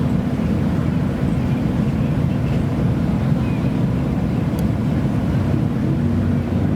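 Modified car engine running steadily at idle, a low, even note with no revving.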